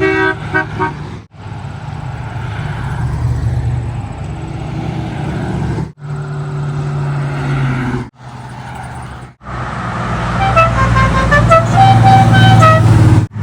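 Classic car engines rumbling as they drive past. A horn toots a few quick times about a second in, and near the end a multi-note musical car horn plays a short tune over the engine sound.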